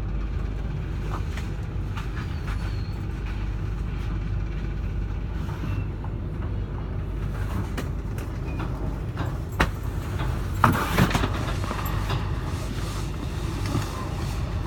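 Long freight train's wagons rolling past at steady speed, a continuous low rumble with a few sharp clanks about ten to eleven seconds in.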